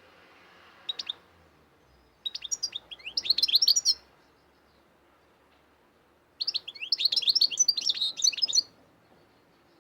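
Cage songbird singing in quick twittering phrases: a brief snatch about a second in, then two bursts of song of about two seconds each, separated by quiet pauses.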